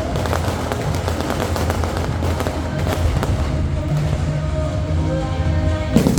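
Aerial fireworks crackling and popping continuously over loud accompanying show music with a steady bass, and one heavier bang near the end.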